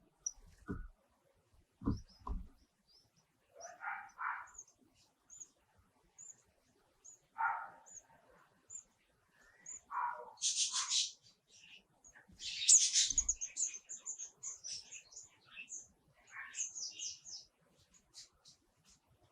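Small wild birds at a nest chirping: a run of short, high cheeps about twice a second, with two louder, denser bursts of calling near the middle that fit nestlings begging at a feed. A few low thumps come in the first three seconds and once midway.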